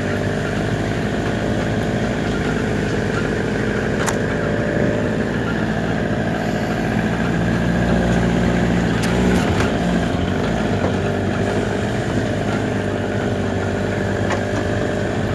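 An engine running steadily at a constant speed, rising slightly in level about halfway through.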